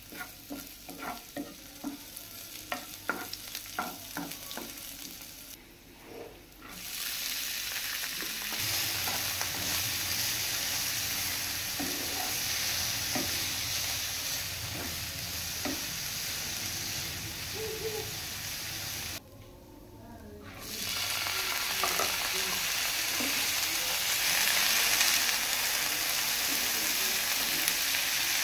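Sliced shallots sizzling in oil in a nonstick frying pan, a wooden spatula stirring with many small scraping taps. After a short break the sizzle turns louder and steady as carrot strips and long beans are stir-fried, dropping away once more briefly about two-thirds through.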